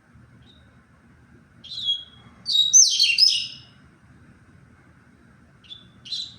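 Double-collared seedeater (coleiro) singing: a falling whistled note, then a quick, dense jumble of high notes, and two short notes near the end.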